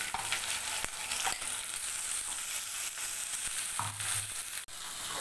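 Ground red chutney paste sizzling in hot oil with curry leaves in a nonstick pan, stirred and scraped with a wooden spatula, with a few sharp taps of the spatula on the pan.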